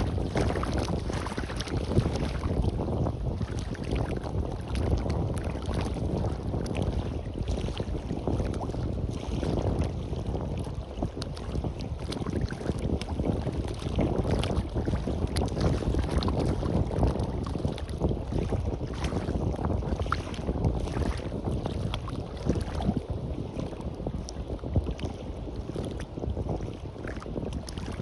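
Waves washing onto a sandy beach, with wind buffeting the microphone in uneven gusts.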